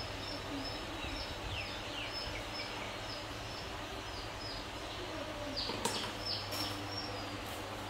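Small birds chirping, a steady series of short high chirps two or three a second, over a steady low hum. About six seconds in there is a single sharp knock, a plastic milk bottle dropping onto the tiled floor.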